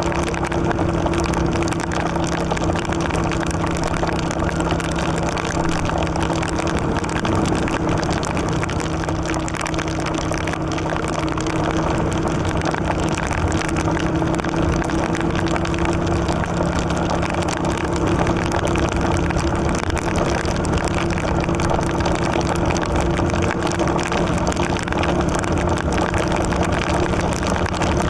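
Yamaha XV750 Virago's air-cooled V-twin engine running at a steady cruise, heard close from the tank, over a steady rush of wind and tyres on the wet road.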